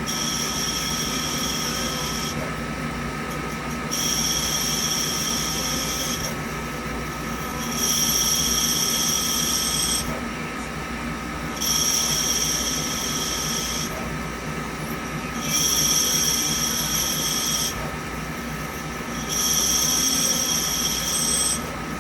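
Okuma Cadet L1420 CNC lathe turning aluminum tubing: a steady machine hum under a high-pitched ring from the cutting tool. The ring comes in about two-second passes, roughly every four seconds, six times.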